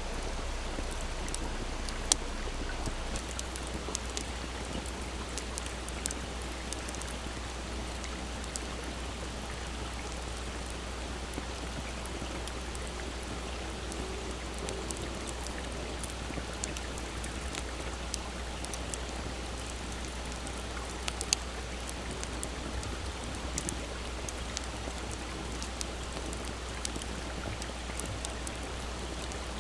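Wood campfire crackling with scattered sharp pops, over the steady rush of a small stream. The loudest pops come about two seconds in and again about two-thirds of the way through.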